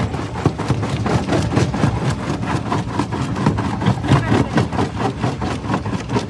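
Stone jaw crusher running under load: a steady low machine drone with dense, irregular cracks and knocks of rock breaking between the jaws.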